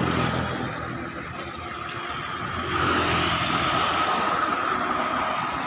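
A passenger train running along a distant hillside line: a steady rumble with a thin, steady whine, dipping a little about a second in and swelling again after about three seconds.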